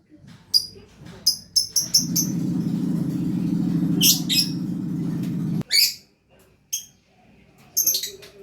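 Lovebird singing busily in short, sharp, high chirps, some in quick runs of two or three. For a few seconds in the middle a steady low drone runs under the chirps and cuts off suddenly.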